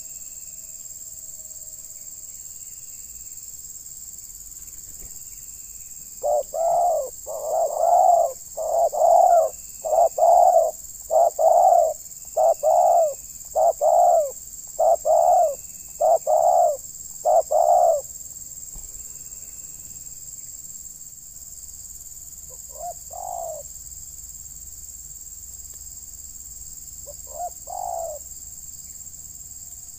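Spotted dove (terkukur) cooing: a run of about ten even, low coos a little over one a second, then two short coos several seconds apart. A steady high hiss runs underneath.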